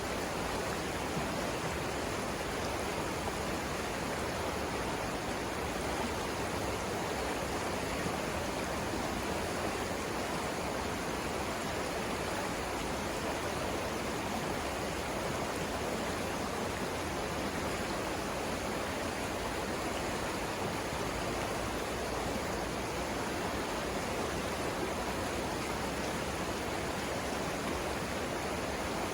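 Savannah River water rushing steadily, an even, unbroken roar of flowing water.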